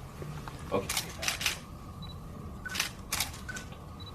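Camera shutters clicking, several quick clicks in two groups, about a second in and again near three seconds in, over a low room hum.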